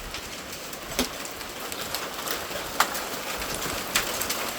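Hail and freezing rain coming down: a steady hiss of rain with scattered sharp pings of ice pellets striking hard surfaces.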